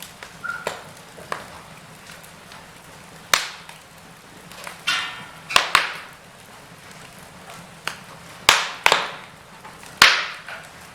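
Wood fire in a fireplace crackling, with a handful of sharp pops at irregular intervals over a soft steady hiss.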